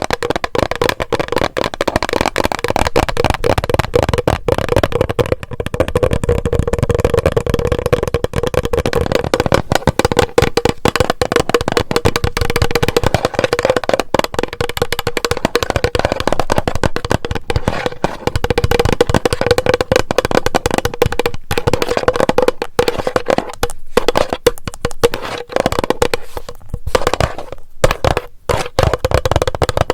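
Rapid tapping on a plastic bottle, many quick taps a second over a steady hollow ring, with short pauses near the end.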